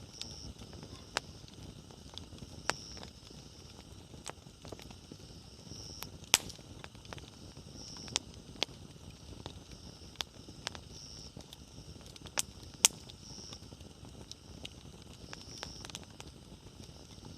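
Wood fire crackling: irregular sharp pops of burning firewood, the two loudest about 6 and 13 seconds in, over the low steady hiss and rumble of the flames.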